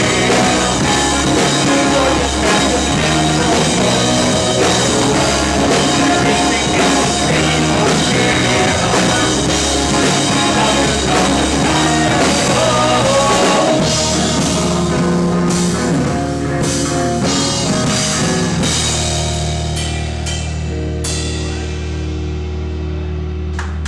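Live rock band playing with drum kit, electric guitars and bass. About two-thirds of the way through, the steady drumbeat gives way to separate drum and cymbal hits while the guitars and bass hold a chord that rings on through the end.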